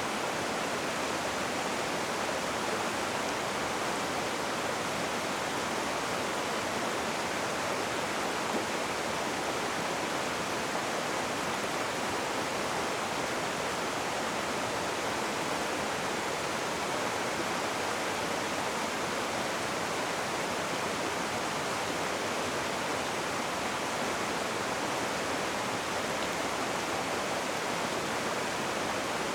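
Rushing river water: a steady, even roar of fast-flowing water.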